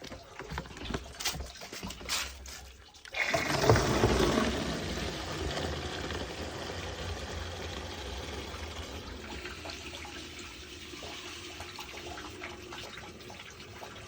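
A few light knocks and clicks, then about three seconds in water starts running out in a steady pour, loudest at first and then settling.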